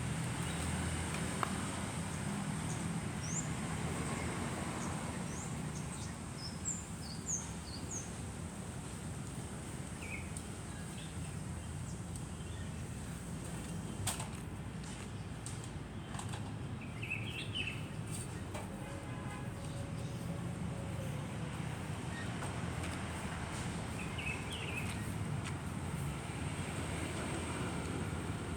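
Steady low rumble, with small birds chirping in short bursts several times over it and a few faint clicks.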